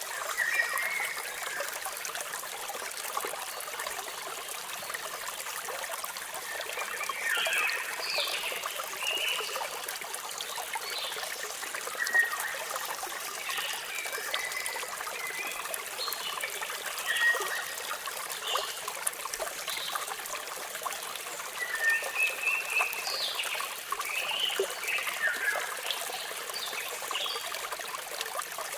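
Waterfall rushing steadily, with small birds chirping over it in short, quick calls that come in busier clusters a quarter of the way in and again near the end.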